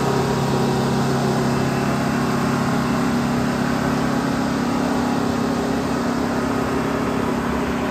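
Small front end loader's diesel engine running steadily, with an even, unchanging drone.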